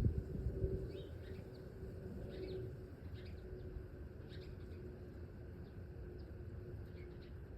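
Small birds giving short, scattered chip and tweet calls, each a quick downward slide, over a low rumble with a few low thumps in the first second.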